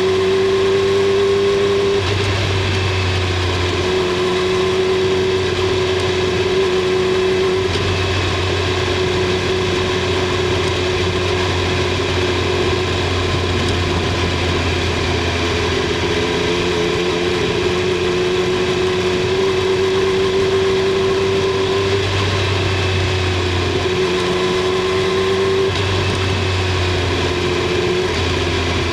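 Triumph Street Triple 765 R's inline three-cylinder engine running steadily, its pitch drifting gently up and down, heard from under the seat.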